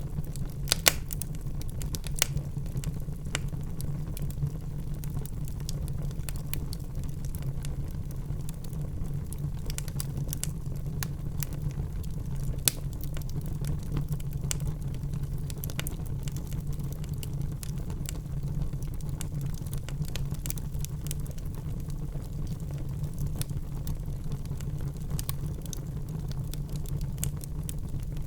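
Wood fire burning in a fireplace: a steady low rumble with frequent sharp crackles and pops, a few louder snaps about a second in, around two seconds and near the middle.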